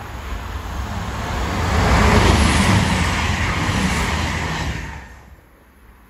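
CrossCountry Voyager diesel multiple unit passing close by at speed: the rush and rumble of the train build to a peak about two seconds in, hold, then cut off suddenly about five seconds in.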